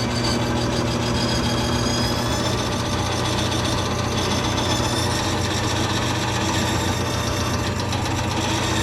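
Bandsaw running steadily and cutting through a thick guitar body blank of solid teak with a glued-on pine cap, rough-trimming it to shape. Under the motor's steady hum, a high whine from the blade in the wood wavers in pitch.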